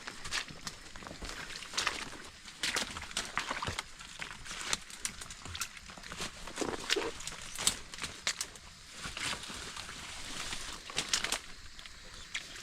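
Steady rain hiss in the forest, with irregular knocks and rustles over it.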